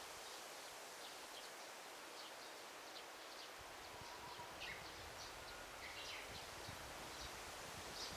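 Daytime forest ambience: a steady hiss of rustling leaves with scattered short, high bird chirps, busiest in the second half. A faint low rumble joins about halfway through.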